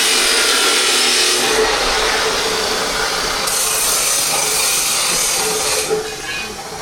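A power tool running against hard material: a harsh, rasping hiss with a faint steady whine that stops abruptly about six seconds in.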